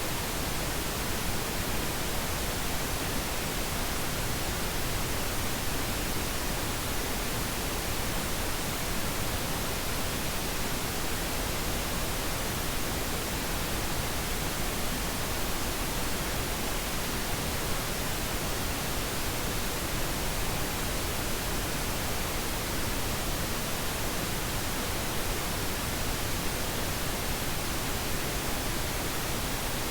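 Steady pink noise: an even, unchanging hiss with no breaks or events.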